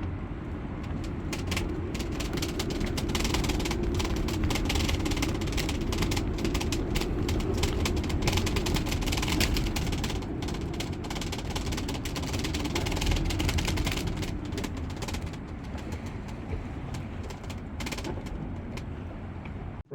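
Storm wind rumbling and buffeting on the microphone, with a dense patter of sharp hits from rain and hail striking the sailboat.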